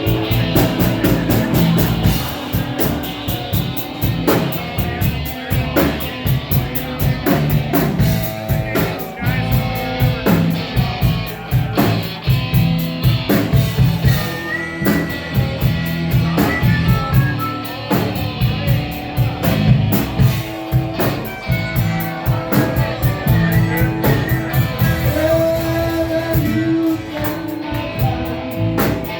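A rock band playing, with guitar and a drum kit keeping a steady beat.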